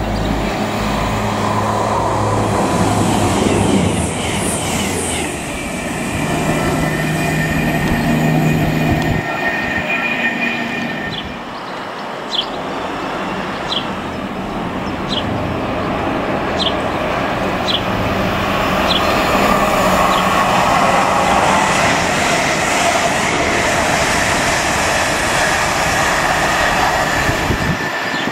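Modern express multiple-unit trains running on an electrified main line: a continuous rush of wheels on rail, with short high wheel ticks at regular intervals. Near the end a Lumo Class 803 electric train approaches.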